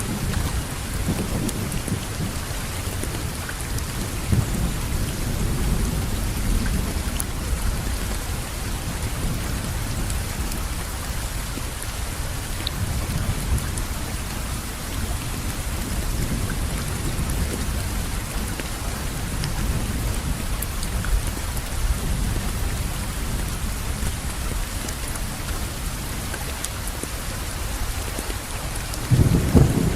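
Steady rainfall, an even hiss of many drops, with a low rumble running underneath that grows louder right at the end.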